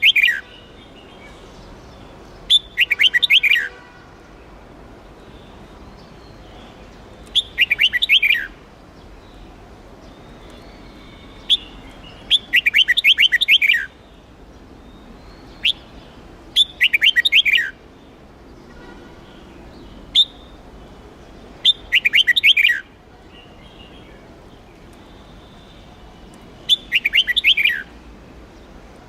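Red-whiskered bulbul singing: short, rapid phrases of about a second each, repeated every four to five seconds, each run of notes falling in pitch, with a few single short calls in between.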